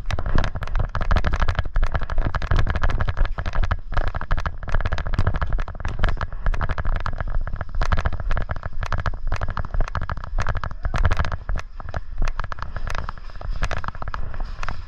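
Airsoft guns firing: many quick, irregular pops and cracks in close succession, over a steady low rumble.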